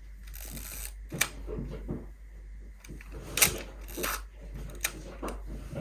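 Film camera being loaded and wound by hand: a series of sharp mechanical clicks with light scraping from the film-advance mechanism. The sound is a sign that something is wrong: the film has not caught on the take-up spool and gets wound back into its cassette.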